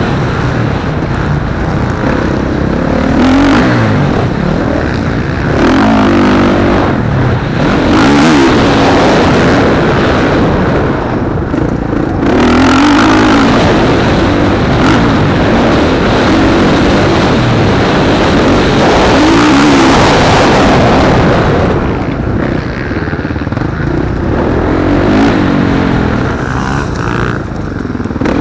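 Motocross bikes racing, their engines revving up and falling back over and over as the riders work through the gears.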